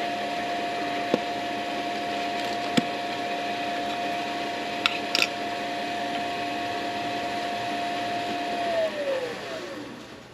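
Wood lathe motor running at a steady pitch, with a few light clicks and taps, then switched off, its whine falling in pitch as it spins down to a stop near the end.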